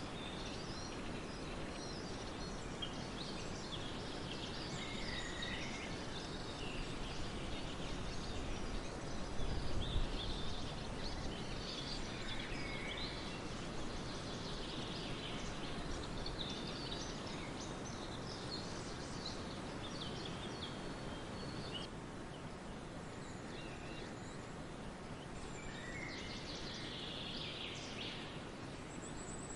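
Birds chirping and calling on and off over a steady background hiss, with a brief low rumble about a third of the way in. A thin, steady high tone starts near the end.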